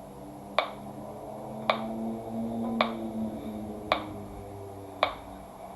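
Metronome clicking the dotted-quarter-note beat, five evenly spaced clicks a little over a second apart. Underneath, low cello notes are held and then fade out over the first few seconds.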